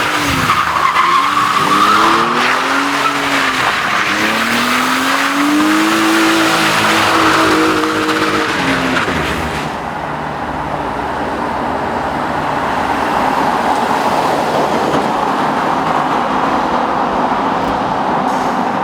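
A drift car's engine revs up and down over and over while its rear tyres squeal and skid. About ten seconds in, the revving stops and a steady rushing noise remains.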